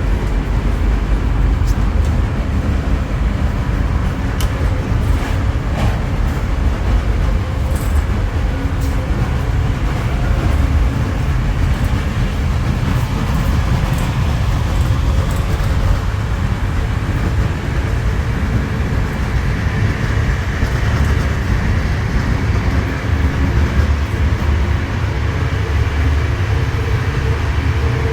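Moving passenger train heard from inside a sleeper carriage's corridor: a loud, steady rumble of the wheels and running gear, with a few faint clicks and rattles.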